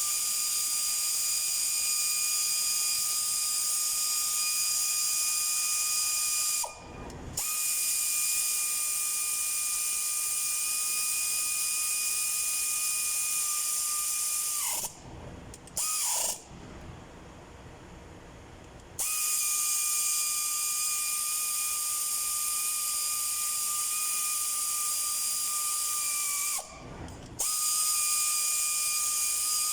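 Electric power tool running the crankshaft main bearing cap bolts down: a steady motor whine that stops and restarts several times, winding down in pitch at each stop, with a longer pause about halfway through.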